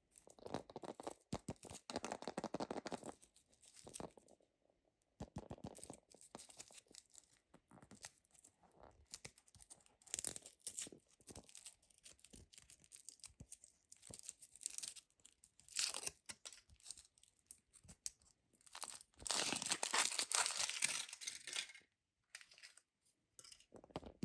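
Crunching and scraping as kinetic sand is cleaned off toy vehicles, in irregular bursts with small clicks, and a longer, louder stretch of scraping near the end.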